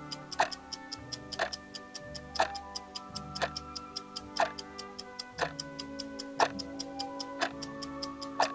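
Clock-ticking sound effect: a louder tick once a second with lighter ticks about four times a second in between, over background music of sustained tones.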